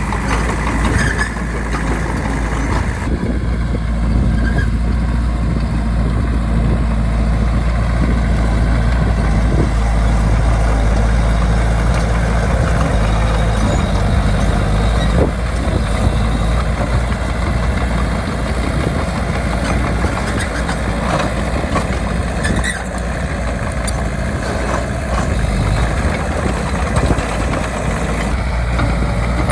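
A bulldozer's diesel engine runs steadily, with a constant low rumble.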